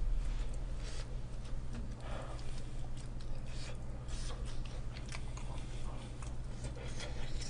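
Close-miked eating of fried fast food: biting and chewing with many small crisp crunches and mouth clicks.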